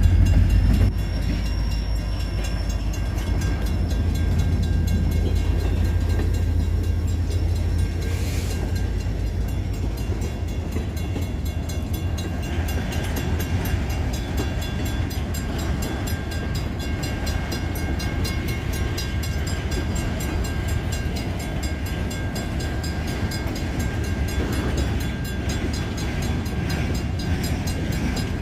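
Freight train rolling slowly past: a steady low diesel locomotive rumble with the running noise of railcar wheels on the track, a little louder in the first second.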